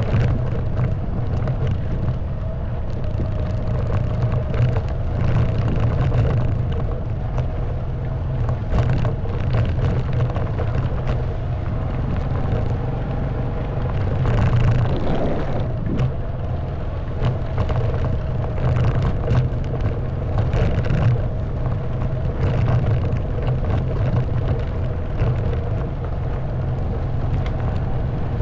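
Honda Wave 110cc single-cylinder four-stroke motorbike engine running steadily under way, with frequent short knocks and rattles as the bike rides over a rough stone track. About halfway through the engine pitch rises and falls briefly.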